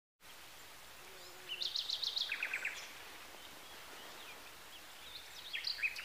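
Small birds calling in quick runs of high, repeated chirps, one burst about a second and a half in and another near the end, over a faint steady outdoor hiss.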